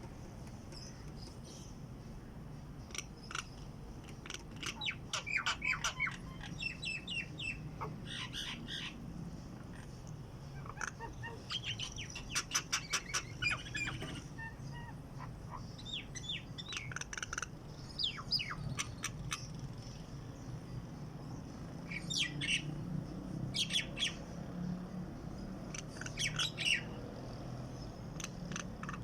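A songbird singing in bursts of quick chirps and fast repeated notes, with short gaps between phrases, over a steady low hum.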